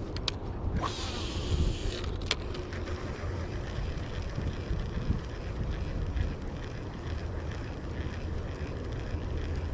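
Wind buffeting the microphone: a steady low rumble. About a second in there is a short hiss, and a couple of sharp clicks.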